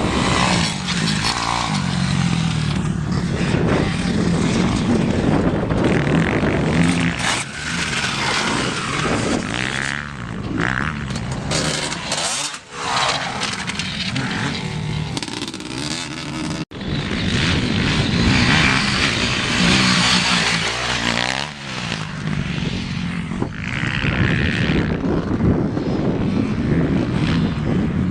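Motocross bikes racing, their engines revving up and dropping away as they go round the track.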